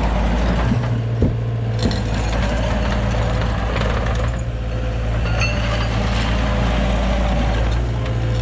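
Heavy diesel equipment engine running steadily, with two sharp knocks a little over a second in and again near two seconds, and brief squeaky tones later on.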